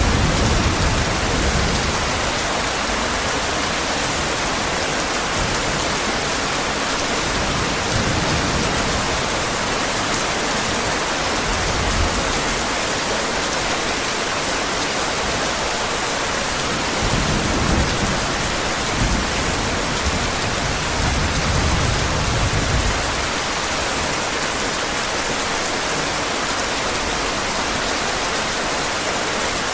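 Heavy rain falling in a steady hiss, with low rumbles of distant thunder: one at the start, a couple of short ones in the first half, and a longer roll about two-thirds of the way through.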